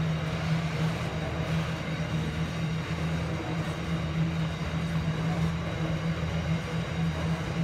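Hopper wagons of an Aurizon freight train rolling past on the rails: a steady low rumble with no clear knocks.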